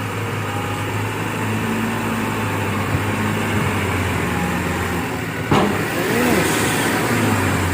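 Diesel truck engine running hard under throttle as the truck tries to climb a soft, muddy slope, a steady drone that bogs down as the wheels sink. A single sharp knock comes about five and a half seconds in.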